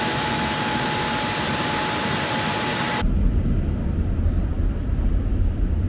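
Automatic car wash air dryers blowing on the car, heard from inside the car: a loud, even hiss with a steady whistle-like tone for about three seconds that cuts off sharply, leaving a low, steady rumble.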